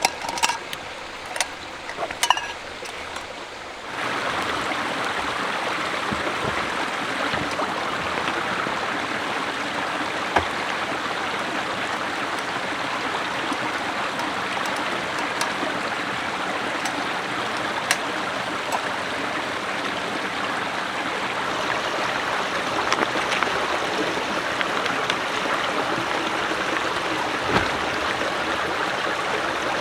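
A few sharp clicks and knocks, then about four seconds in the steady rush of running stream water starts abruptly.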